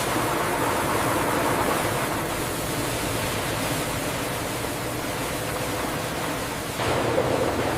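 Steady noise of production-line machinery with a low hum underneath, growing louder about seven seconds in.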